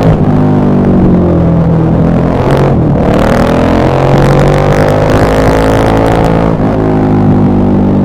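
KTM 1190 Adventure R's LC8 V-twin engine heard through its exhaust. It slows with falling pitch for about two and a half seconds, then after a brief break revs up with rising pitch and wind rushing, and drops again briefly near the end.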